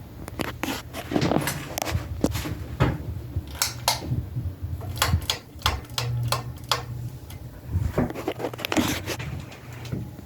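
Hunter Reverse-Aire Original ceiling fan motor humming steadily, with irregular clicks and knocks throughout.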